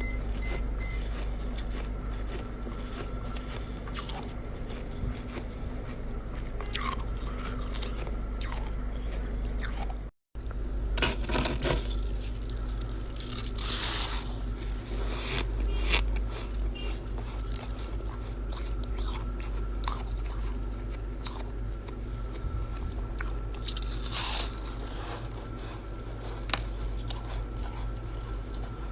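A person biting and chewing chest-freezer ice, with irregular crunches over a steady low hum. The sound drops out for a moment about ten seconds in.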